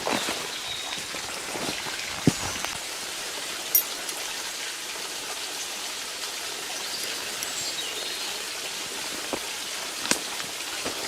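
Rain falling steadily with a continuous hiss, and scattered sharper drops ticking now and then.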